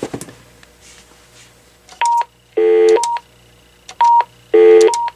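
AT&T 7720 answering machine base beeping in answer to button presses. The sequence comes twice: a short pure beep, a louder buzzy multi-pitch tone of about a third of a second, then another short beep.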